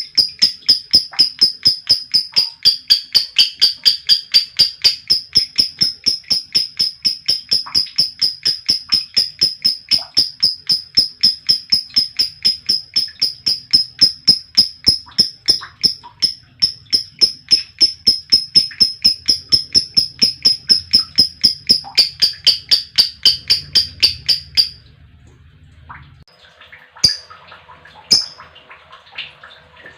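Female lovebird's 'ngekek' song: a long, unbroken run of rapid, high-pitched chirps repeated at an even pace, which stops abruptly about 25 seconds in. A couple of short sharp chirps follow near the end.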